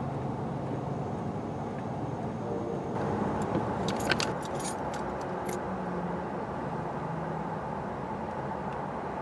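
Steady rumble of road traffic, with a short run of light, irregular clicks and jingles about three to five and a half seconds in.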